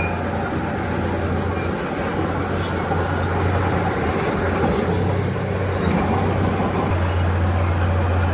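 Heavy earthmoving machinery working: a diesel engine runs with a steady low hum over a broad mechanical noise, without a break.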